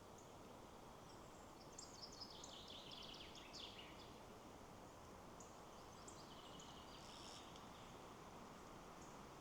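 Quiet birdsong over a steady soft rush of wind in the trees. A falling, warbling phrase runs from about two to four seconds in, and a second, shorter run of high chirps comes around six to seven seconds.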